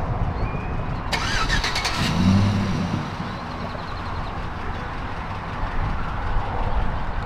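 A car engine being started: the starter cranks for about a second, then the engine catches and runs with a brief low drone before it settles into the background noise of running vehicles.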